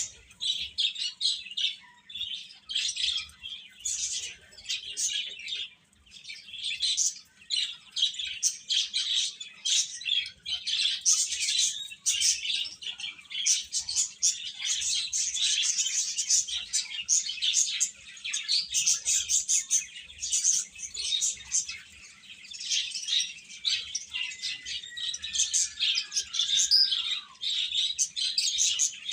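A group of baby chicks peeping together: many short, high chirps overlapping in a dense, continuous stream.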